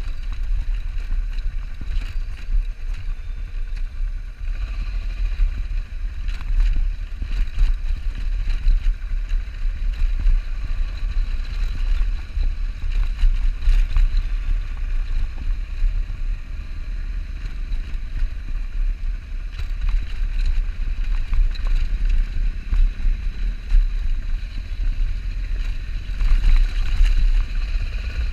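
Wind buffeting a camera microphone on a moving motorcycle: a steady, uneven low rumble with road and engine noise underneath.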